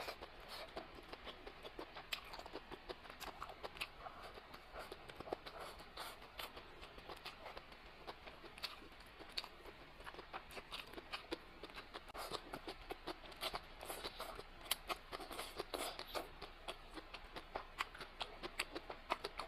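Close-miked chewing of spicy octopus: many short, irregular clicks and smacks of eating.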